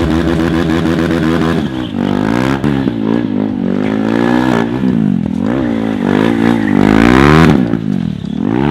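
KTM RC 390's single-cylinder engine revving hard during drifting, its pitch rising and falling again and again after a steadier first couple of seconds.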